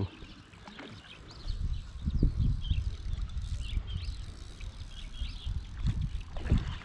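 Small birds chirping repeatedly, over a low, irregular rumbling on the microphone that begins about a second and a half in.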